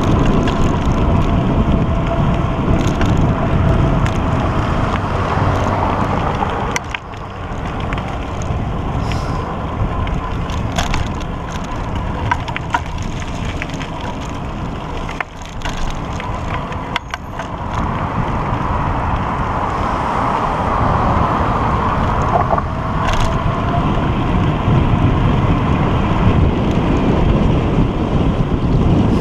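Riding noise from a moving pedal bike: steady rushing wind on the microphone with rumbling road noise, broken by scattered sharp clicks and crunches.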